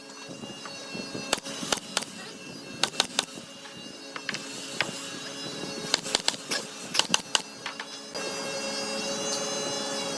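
A steady machine hum under clusters of sharp knocks, two or three at a time, as of tools striking wood. The hum grows louder about eight seconds in.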